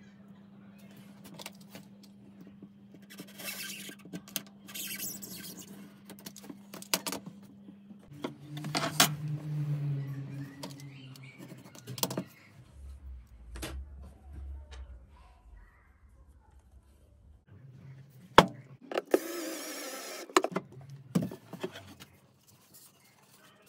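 Hands handling tools and parts: scattered clicks and knocks with short scraping sounds, over a faint steady hum.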